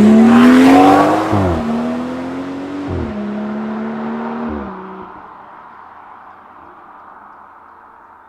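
BMW 440i's turbocharged straight-six with the M Performance sport exhaust, accelerating hard past and loudest about a second in. The revs climb and drop sharply three times, about a second and a half apart, as it shifts up through the gears. The engine then fades to a low drone as the car pulls away.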